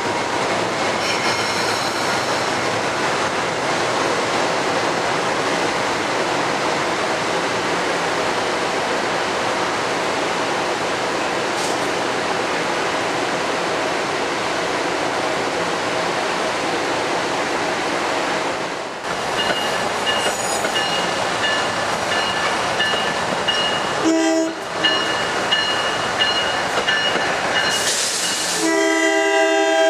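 Metro-North electric multiple-unit commuter train running out of the station with a steady rumble of wheels and motors. In the last seconds an approaching Amtrak AEM-7 electric locomotive sounds its horn twice: a short blast, then a longer one near the end.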